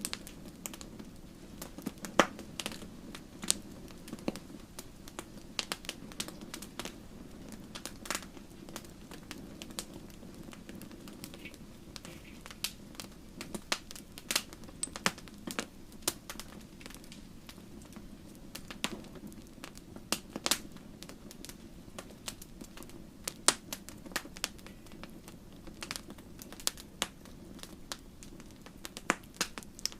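Wood fire burning in a fireplace, crackling and popping irregularly over a steady low rumble of flames.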